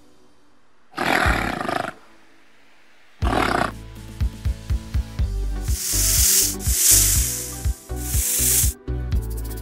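Two short, noisy gorilla calls, about one second and about three seconds in. Background music with a steady drum beat then starts and carries on, with three loud hissing bursts over it in the second half.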